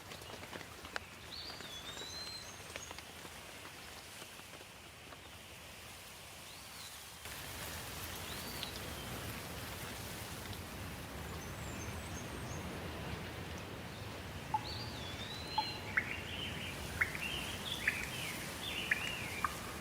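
Steady rain hiss with birds calling over it: a few looping whistled calls through the first half, then a quick run of chirps and sharp ticks over the last five seconds. The rain gets slightly louder about seven seconds in.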